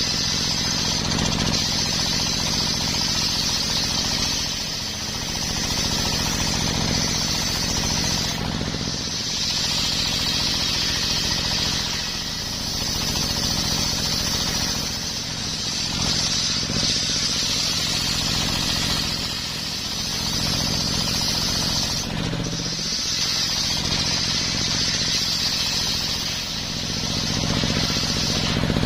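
Homemade circular sawmill running steadily while its blade cuts coconut-palm wood, a motor drone under a loud high-pitched cutting noise. The cutting noise drops out briefly about eight seconds in and again about twenty-two seconds in.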